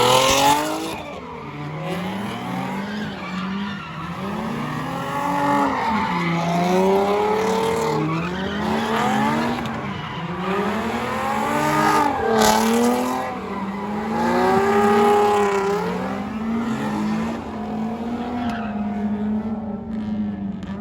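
A car engine revving hard, its pitch rising and falling again and again every second or two, with tyres squealing as the car slides.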